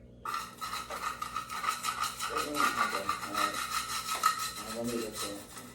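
A rasping, scraping noise starts suddenly just after the start and runs on in fast, even strokes with a steady high whine in it. A voice speaks faintly under it twice.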